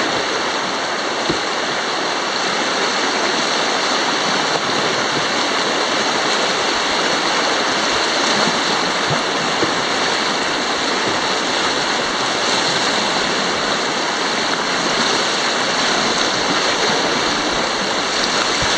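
Steady rush of whitewater in a river rapid, heard from a canoe running through it.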